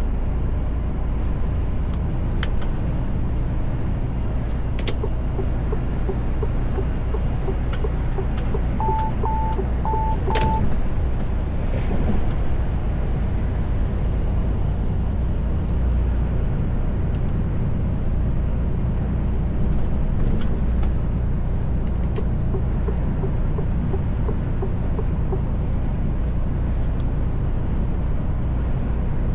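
Steady low rumble of engine and road noise inside the cab of a moving Mercedes Actros truck. About nine seconds in there is a quick run of four short electronic beeps.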